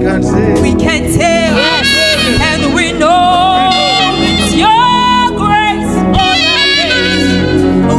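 Gospel band playing, with a lead melody line of quick ornamented runs and two long held notes over the band.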